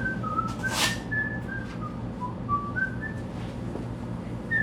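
A person whistling a tune: a run of short notes stepping up and down in pitch, over a steady low hum, with a brief hiss about a second in.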